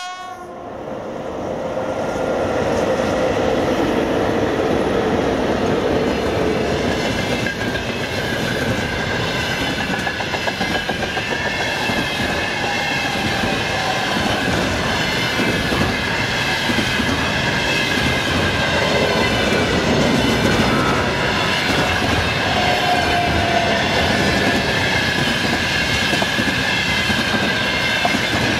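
A VL80S electric locomotive hauling a container freight train passes at speed. The sound builds over the first two to three seconds as the train arrives, then the wagons' wheels clatter steadily over the rail joints.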